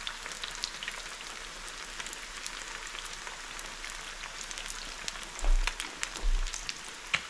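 Battered whiting goujons frying in hot oil in a frying pan: a steady sizzle with frequent crackling pops. Two dull low thumps come about two-thirds of the way in.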